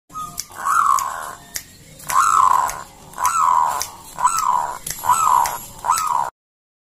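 Zebra dove (perkutut) calling: a series of six coos about a second apart, each note rising and then falling in pitch. The sound cuts off abruptly near the end.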